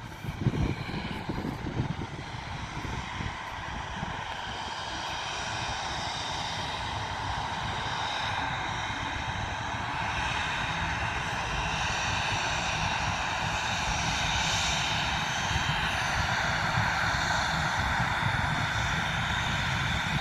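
Aircraft engines running, a high whine over a low rumble, growing steadily louder as the plane draws nearer.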